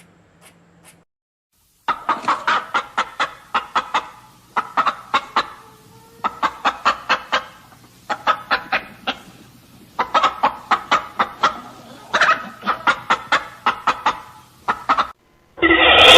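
Chickens clucking in quick runs of short, rapid clucks, several a second, with brief pauses between runs. A louder call cuts in abruptly near the end.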